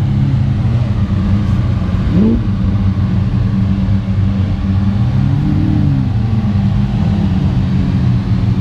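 Supercar engines running in a slow-moving line of cars: a steady deep drone, with a short blip of revs about two seconds in and a slow rise and fall in engine pitch around the middle.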